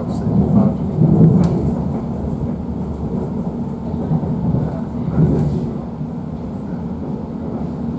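Class 345 electric multiple unit running at speed, heard from inside the carriage: a low, noisy rumble of wheels on track. It swells about a second in and again around five seconds.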